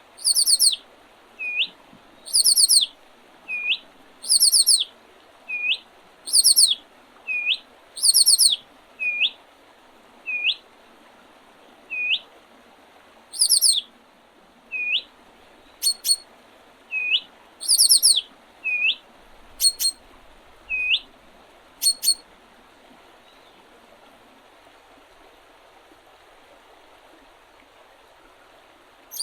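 Songbirds calling: a short upswept call repeats about once a second, over short, very high trilled phrases. Both stop about two-thirds of the way through, leaving a steady faint hiss.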